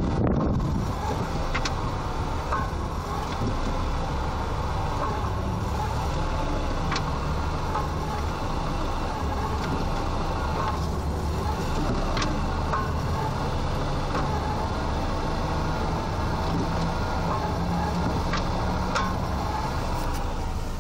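Honda Accord engine running steadily with a knock that shows up once the engine is hot, plus a few scattered sharp clicks.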